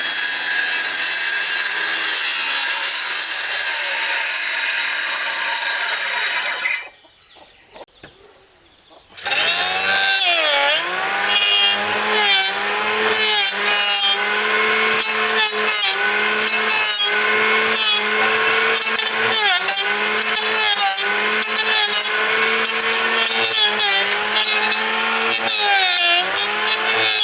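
A power tool cutting wood. It runs steadily, stops for about two seconds, then starts again with a steady motor pitch that dips briefly several times as it bites into the wood.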